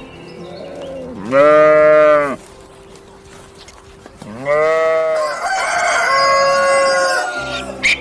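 Rooster crowing twice: a short crow about a second in, then a longer one of about three seconds.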